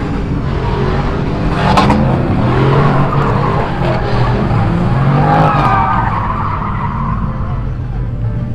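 A car's tires squealing in a wavering screech over a hard-running, revving engine, as in street-takeover donuts or a burnout.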